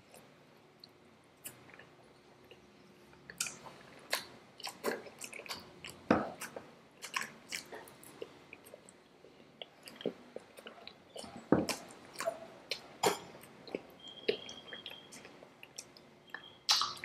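Close-up chewing and mouth sounds of people eating Indian sweets: irregular wet smacks and clicks with a few sharper, louder bites.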